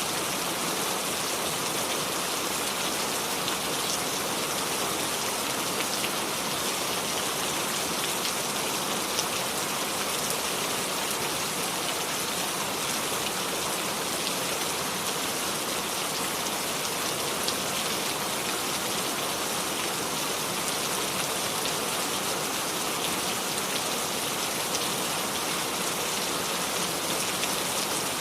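Steady, even rain falling without thunder, with fine scattered drop ticks.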